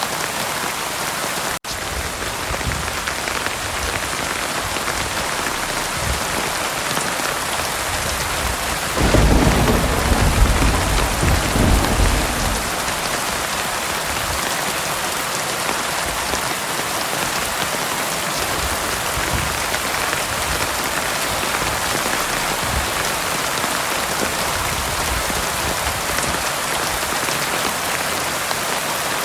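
Heavy rain falling steadily, with a low rumble of thunder about nine seconds in that lasts around three seconds. The rain sound drops out for a moment about a second and a half in.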